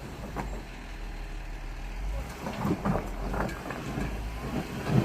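Off-road vehicle engine running steadily at low revs, with scattered short knocks and crackles in the second half.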